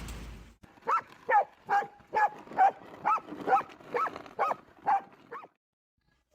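A dog giving a run of about ten short, yelping calls in a steady rhythm of about two a second, each call rising and falling in pitch.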